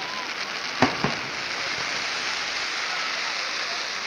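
A firework waterfall, a long curtain of falling sparks, hisses steadily. A sharp firework bang comes a little under a second in, with a smaller bang just after.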